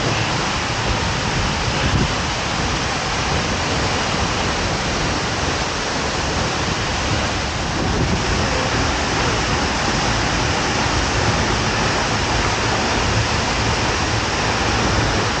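Seljalandsfoss waterfall's falling water rushing, a steady, loud noise with no breaks.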